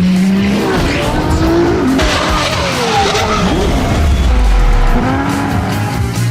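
A high-performance car engine revving, its pitch rising and falling several times, with tyres squealing, mixed over background music; a deep low rumble comes in about four seconds in.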